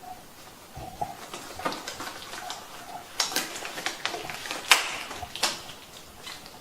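Irregular rustling and sharp light clicks from hands handling things, likely the disposable gloves and cleaner, with the loudest click about five seconds in.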